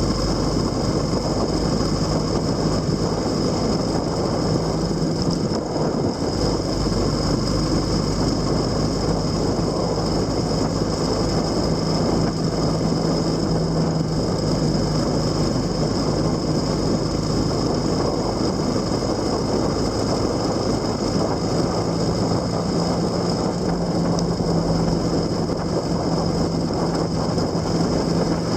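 A vehicle's engine running at a steady pace with a constant low hum, under heavy wind and road noise while riding.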